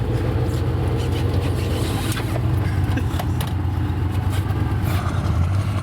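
Chevrolet Suburban's engine running steadily in four-wheel-drive low while the truck drives through snow: a constant low drone with scattered small crackles and knocks over it.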